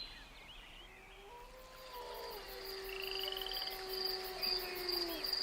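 Night-time ambience of frogs and insects: a steady, high, pulsing insect trill, with a short rattling trill twice and low drawn-out tones that hold and sag away near the end.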